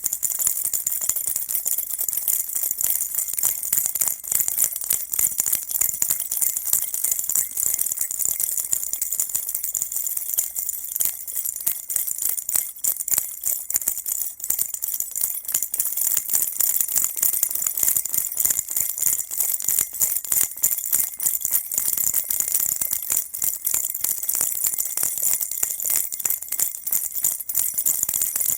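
Baby rattle shaken without pause, a dense, bright, jingling patter of small beads or bells, mostly high-pitched.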